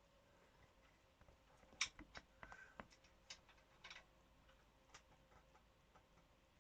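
Faint, scattered clicks and taps, about a dozen over three seconds, the sharpest about two seconds in, from hand tools pressing down a valve spring on the engine's cylinder head.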